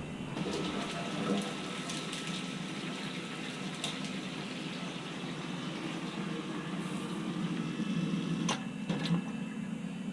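Water running steadily, with a few sharp clicks or knocks, one louder about three-quarters of the way through.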